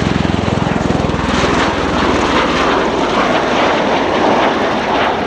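Bell Boeing CV-22B Osprey's proprotors and twin Rolls-Royce Allison AE1107C turboshaft engines, loud and steady. A fast, low rotor beat at the start fades about a second in, leaving an even rush of engine and rotor noise.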